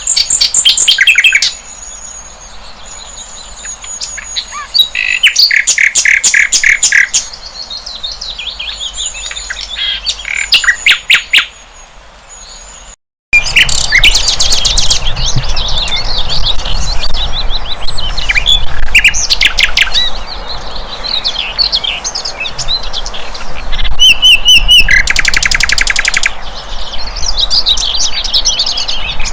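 A flycatcher, the bird sold in Indonesia as sikatan londo, singing: fast trills of rapidly repeated notes, chattering phrases and thin high whistles. The sound cuts out completely for a moment about halfway, then the song resumes.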